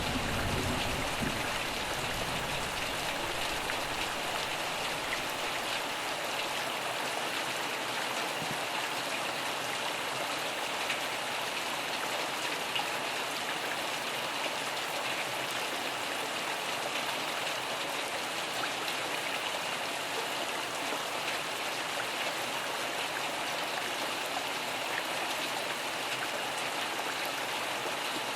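Steady, even rainfall pattering. A low thunder rumble dies away over the first few seconds.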